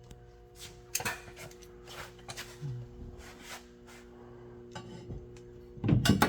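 Scattered clinks and knocks of metal hand tools and parts being handled, over a steady hum, with a louder knock near the end.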